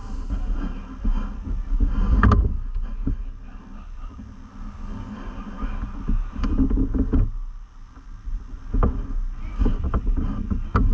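Irregular clicks and knocks of hand tools and metal parts being worked on a car engine while the drive belt is taken off, over a low rumble.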